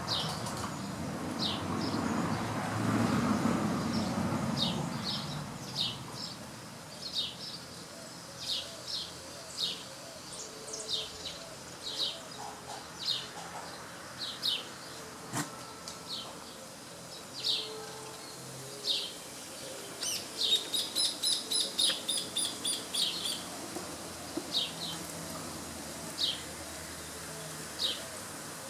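A small bird repeating short, high, falling chirps about once a second, breaking into a fast run of chirps about two-thirds of the way through. A low rumble fills the first few seconds.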